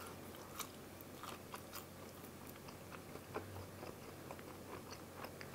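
Faint chewing of pizza crust, with scattered small crunchy clicks.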